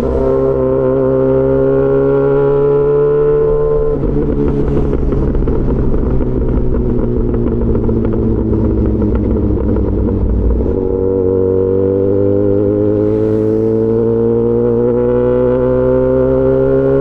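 Yamaha XJ6 S inline-four engine through an SC-Project aftermarket exhaust, riding and accelerating. The pitch climbs for the first few seconds, breaks at a gear change about four seconds in, runs unevenly for a while, then rises steadily again from about ten seconds in.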